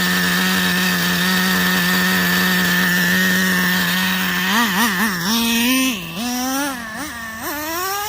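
Traxxas Revo 3.3 two-stroke nitro engine running at a steady high pitch, then from about four and a half seconds in revving up and down in a string of quick throttle blips, getting quieter around the six-second mark. The engine is running a little hot and is due to have its mixture richened.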